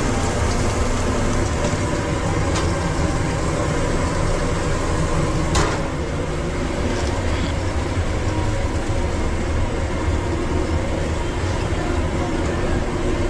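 Steady mechanical drone of food truck kitchen equipment, with a sharp clack about five and a half seconds in and a few fainter clicks.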